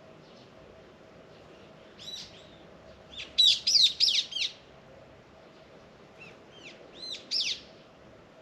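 A songbird singing two phrases of quick, rising-and-falling whistled notes, the first about two seconds in and the second shorter one near the end.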